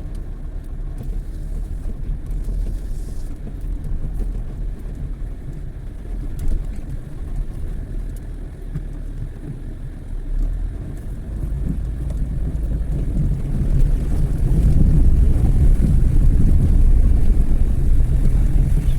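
Engine of a Chevrolet Celta 1.0 running as the car drives through a stream, a steady low rumble with water noise. It builds from about halfway through and is loudest near the end.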